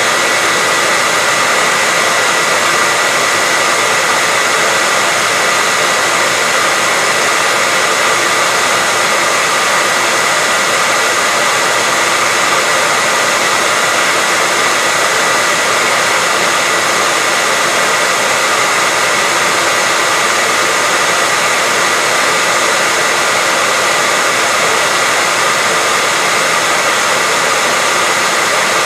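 Hair dryer running steadily, a constant airy hiss with a faint high whine from its motor, played as white noise to soothe a baby to sleep.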